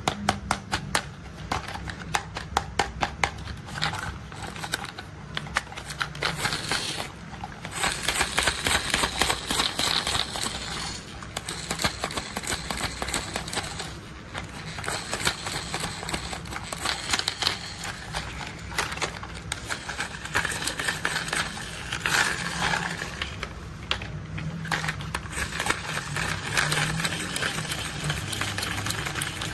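Plastic toy construction vehicles being handled, giving rapid, dense clicking and rattling, many clicks a second, with stretches of busier rattling.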